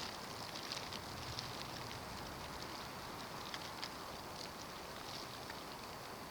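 Steady hiss of a snowstorm with scattered light ticks, like grains of snow striking a surface.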